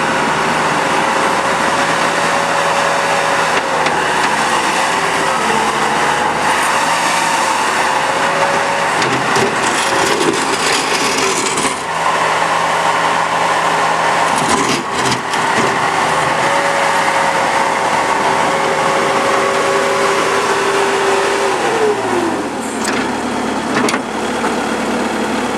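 Bobcat T300 compact track loader's diesel engine running at high revs while the machine is worked, its pitch wavering as it takes load, with a few knocks in the middle. Near the end the engine slows, dropping in pitch as it is throttled back.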